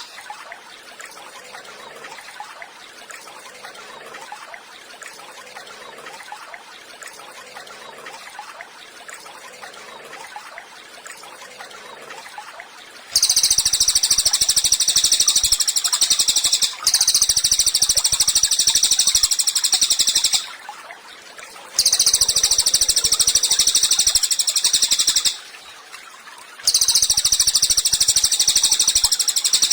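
Cililin songbird singing in long, loud, very high-pitched bouts of rapid chattering notes, three of them separated by pauses of a second or so, starting about halfway in. Before that there is only faint, quieter sound.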